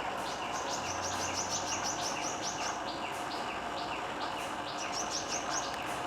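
A bird calling a rapid series of short, high, downward-sliding chirps in two quick runs with a slower stretch between, over a steady background hiss.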